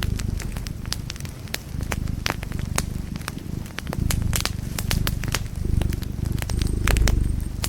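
Wood fire crackling in a fireplace: frequent sharp pops and snaps over a steady low rumble of the flames that swells and fades.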